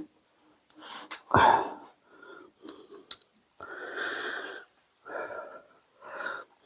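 A dog sneezing and snuffling several times in short breathy bursts, the loudest about a second and a half in and a longer snort about four seconds in; the owner takes it for a cold, with a dry nose.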